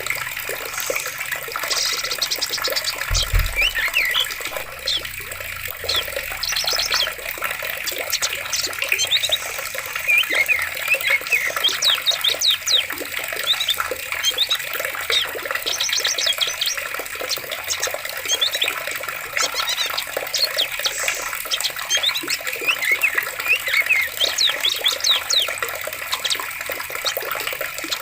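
Running water with many forest birds chirping and calling over it, including quick trills now and then. A brief low thump about three seconds in.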